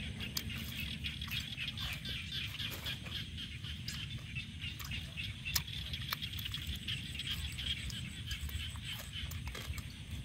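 Chewing and crunching of grilled frog, with short sharp clicks from the bites and mouth. Under it runs a steady chorus of calling animals.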